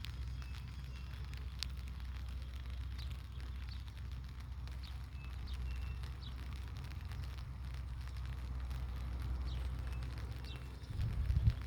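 Light rain pattering in fine scattered drops over a steady low rumble, with short bird chirps here and there. A louder low thump comes near the end.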